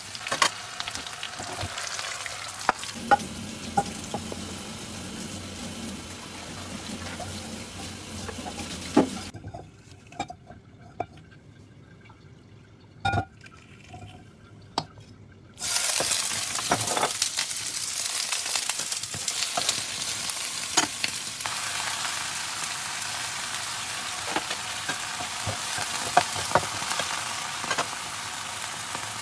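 Food sizzling in a frying pan, with sharp clicks of a spatula against the pan: first beef steak frying in butter. The sizzle falls away for several seconds at about 9 s, leaving a few knocks, then comes back louder at about 16 s as broccoli and carrots stir-fry in oil.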